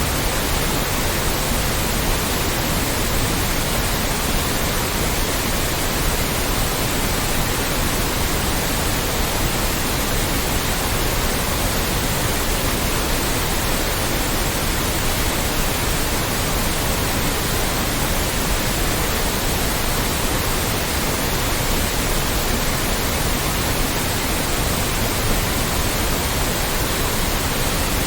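Loud, steady white noise: an even hiss across all pitches, with no changes or events.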